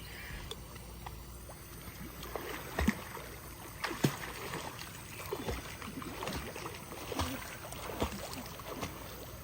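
Pool water splashing and lapping as a child swims, with scattered irregular splashes, the two loudest about three and four seconds in.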